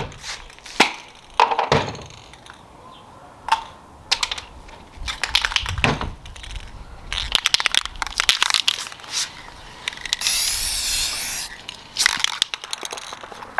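Aerosol spray paint cans being handled, with scattered sharp clicks and cracks. About ten seconds in, a steady hiss of spray lasts about a second and a half.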